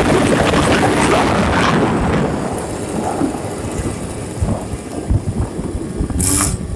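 Two-stroke scooter with a Suzuki expansion pipe, a tuned Yamaha Jog, running on a test ride, buried in heavy wind rumble on the microphone. Loud for the first two seconds, then quieter.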